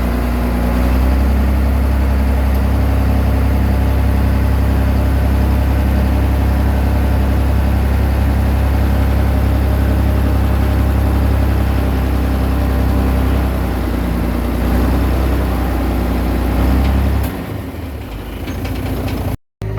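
Komatsu D20P bulldozer's diesel engine running steadily, its pitch wavering a little as it works. About seventeen seconds in it drops sharply quieter, and it cuts out for a moment just before the end.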